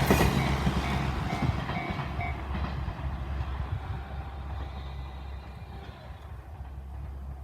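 A diesel railcar rumbling away down the single track, its low engine and wheel noise fading steadily. In the first two seconds a few short, evenly spaced electronic rings sound, the level-crossing alarm ringing off.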